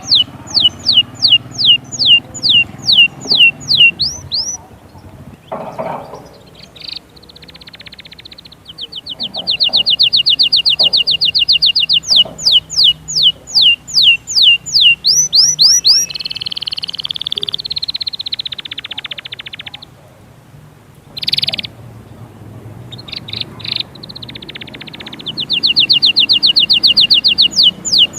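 Goldfinch singing: fast runs of repeated sharp, high notes, broken by buzzy trills and a few short pauses.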